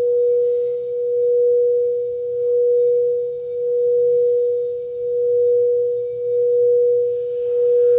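Singing bowl sounding one sustained, pure tone that swells and fades in slow, regular waves.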